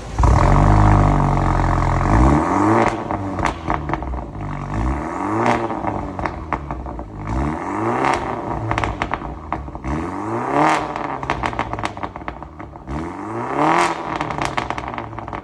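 BMW G20 320 with a dual valved Varex performance exhaust, valves open: a loud low rumble for about two seconds, then the engine blipped about five times, each rev rising and falling in pitch, with crackles on the lift-off between revs.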